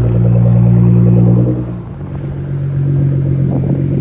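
Nissan GT-R's twin-turbo V6 running at low, steady revs as the car rolls off. About two seconds in, the note dips and gives way to a different steady engine hum.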